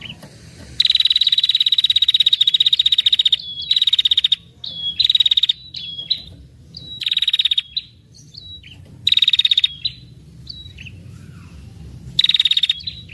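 Female red-headed tailorbird (prenjak kepala merah) giving its rattling 'ngetir' trill, a rapid high buzzy rattle: one long trill of about two and a half seconds, then five shorter bursts with short single notes between them.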